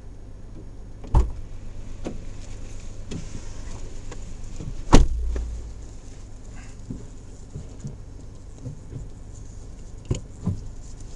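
Suzuki Jimny JB64's 660 cc three-cylinder turbo engine running low and steady as the vehicle creeps along a rough forest track, with sharp knocks from the body and suspension over bumps: one about a second in, the loudest about five seconds in, and two close together near the end.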